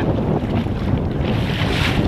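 Wind buffeting the microphone over water splashing and lapping against a small boat's hull.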